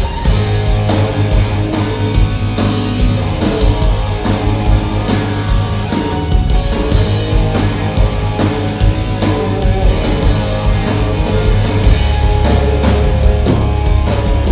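Live rock band playing an instrumental passage: electric guitar over drums and bass with a steady beat.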